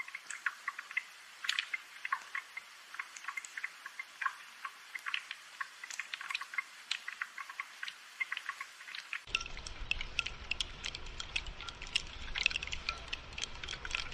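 Rain dripping and pattering, heard as many light, irregular ticks. About nine seconds in a low steady rumble joins and the drips become denser.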